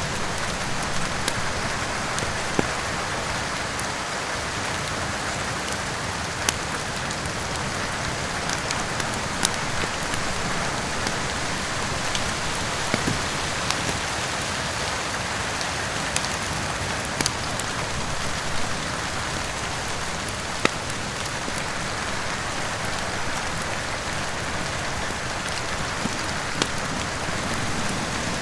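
Steady rain with a wood fire crackling, giving scattered sharp pops at irregular intervals over the even hiss of the rain.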